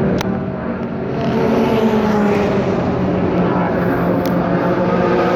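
A steady engine drone whose pitch sags slowly and falls near the end, with a few sharp clicks.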